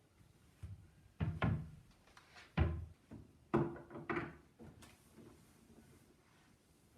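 A few sudden household knocks and thumps, about five of them in the first half, some with a short ring after.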